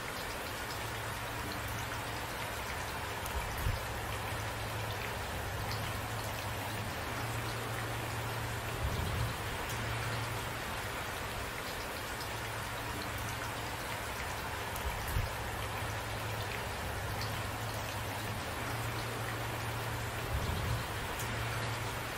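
Steady rain falling, with a low, even rumble beneath it and four brief low thumps spread through it.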